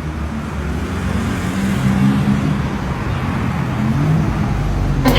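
A car engine running on the street, its low pitch wavering and the sound slowly growing louder. Music cuts in abruptly near the end.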